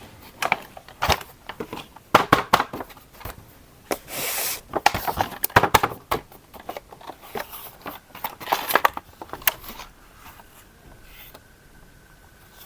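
Hands handling packaging and plastic parts: irregular clicks, knocks and crinkling, with a short rustling burst about four seconds in and a faint steady whine near the end.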